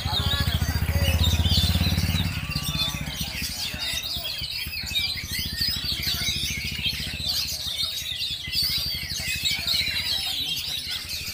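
Oriental magpie-robins (kacer) singing together in a dense, continuous tangle of chirps and whistles. Under them a low engine hum is loudest in the first two seconds and fades out by about seven seconds in.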